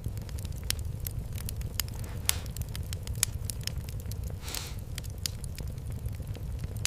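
Fireplace fire crackling: irregular sharp pops and snaps over a low steady rumble, with a brief hiss a little past halfway.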